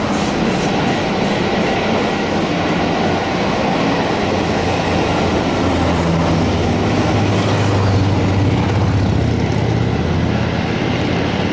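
A passenger train's coaches rolling past with wheels clicking over the rail joints. From about six seconds in, the steady low hum of a Class 47 diesel locomotive's engine comes through as the rear of the train goes by.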